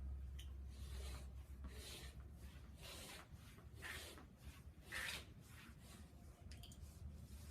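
Faint scraping and rubbing strokes on vinyl flooring and its foam strip, about one a second, over a low steady hum.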